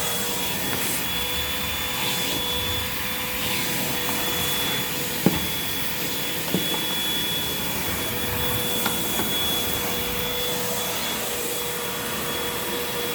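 Hoover WindTunnel 2 Rewind upright vacuum running steadily with an even, high motor whine. There is a sharp knock a little over five seconds in and a lighter one about a second later.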